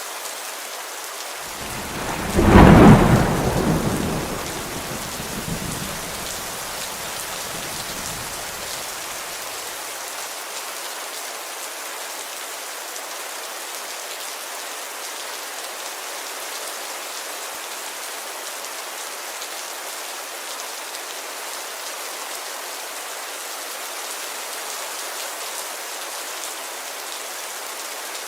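Steady heavy rain on a window, with a single thunderclap about two seconds in that rumbles away over the next several seconds.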